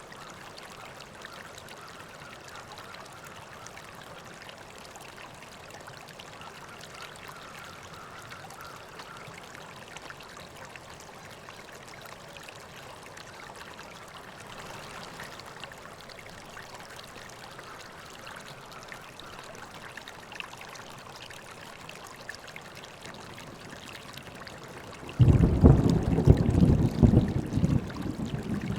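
River water flowing steadily. Near the end, a sudden loud low rumble sets in over it and keeps going, rising and falling in strength.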